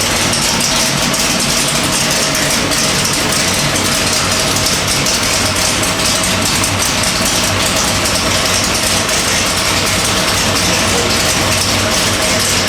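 Small-block Chevy 427 stroker V8 with AFR cylinder heads running on an engine dyno at a steady, unchanging speed, with no revving.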